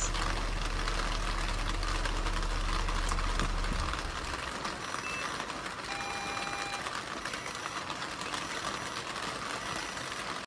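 Toyota Esquire (80-series) engine idling steadily, then switched off about four seconds in. A faint hiss follows, with a few short faint tones.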